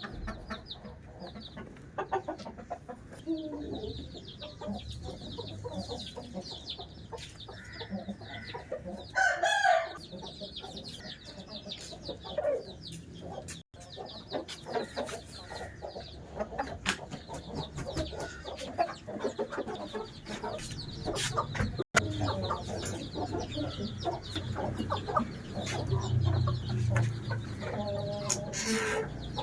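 Aseel game fowl (Merathi and Amroha strains) clucking, with a rooster crowing about nine seconds in and again near the end, over steady high chirping.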